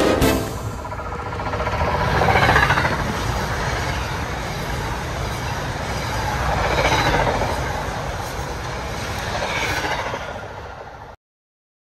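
New Jersey Transit electric commuter train passing close by, its wheels rumbling on the rails and swelling louder and softer as the cars go past. The sound cuts off suddenly near the end.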